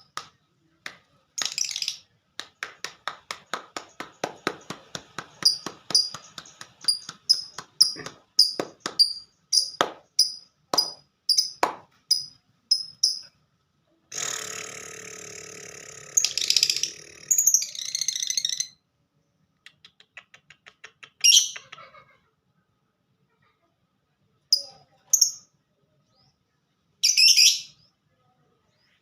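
Lovebird singing in the 'ngetik' (typing) style: a long run of dry clicks and sharp high chirps, about two a second. About halfway through comes a dense buzzing chatter, then a few scattered high chirps.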